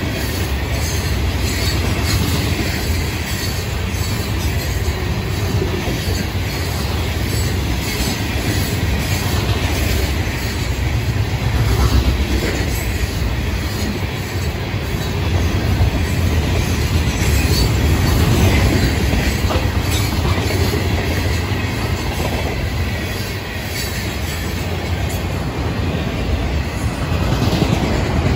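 Florida East Coast Railway freight cars rolling past at close range, loaded rock hoppers followed by autoracks. Their steel wheels make a steady rumble on the rails, with a running clatter of knocks and rattles.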